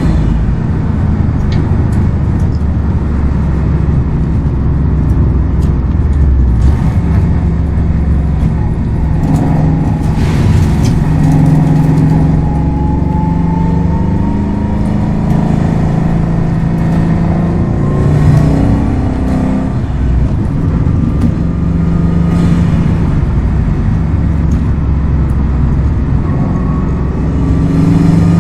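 Subaru WRX STI's turbocharged flat-four engine pulling through the gears on a twisty road, its note rising and falling as the revs climb and drop, over steady tyre and road noise. Near the middle, a higher whine climbs with the revs.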